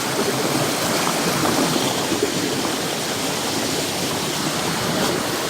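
Fast mountain creek rushing over rocks: a steady, loud wash of flowing water.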